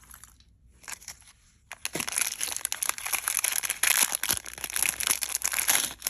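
Small packaging crinkling and rustling as it is handled and opened, with dense crackles starting about two seconds in, loudest around the middle and again near the end.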